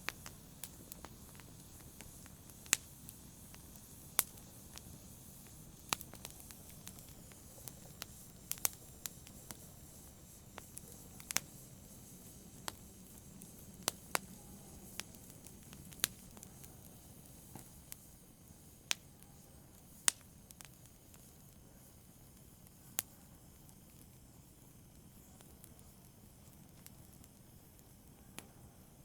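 Wood fire crackling in a fireplace: sharp pops and snaps at irregular intervals over a faint low rumble of flame, with fewer pops in the last few seconds.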